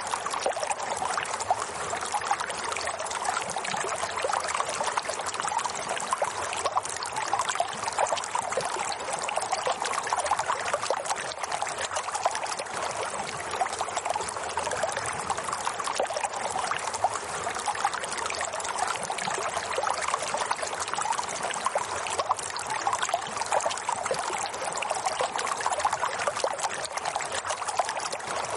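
Running water trickling and splashing steadily, with no breaks.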